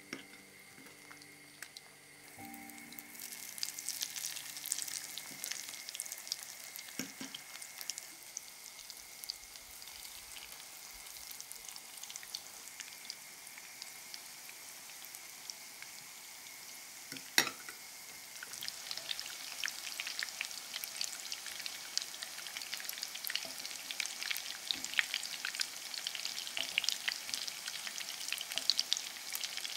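Cheddar-and-egg-coated zucchini strips frying in vegetable oil in a pan: a steady crackling sizzle that sets in about two seconds in and grows louder and busier in the second half. There is a single sharp click about halfway through.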